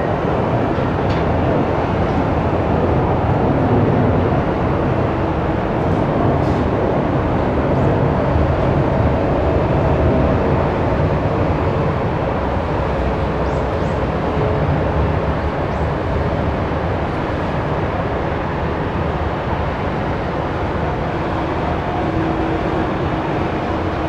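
The GE90 jet engines of a Boeing 777-300ER running with a steady, heavy rumble and hiss, the level easing off slightly through the stretch.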